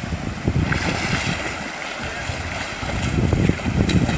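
Wind rumbling on the microphone over a steady rush of water.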